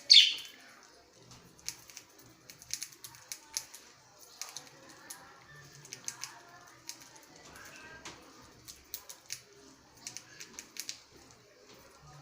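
Birds: a loud, sharp call right at the start, then irregular light clicking and tapping with a few faint chirps.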